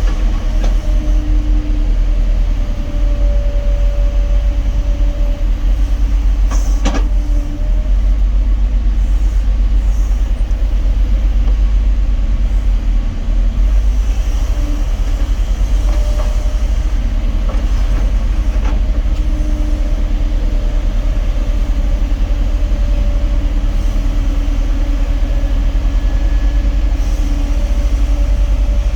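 Kobelco SK260 excavator running: steady low diesel rumble with a pitched hydraulic tone that rises in and fades out several times as the machine works. A sharp click about seven seconds in.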